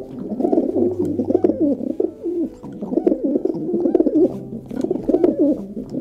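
European turtle doves cooing: a low, rolling coo that wavers in pitch and runs on almost without a break, with a short lull about two and a half seconds in.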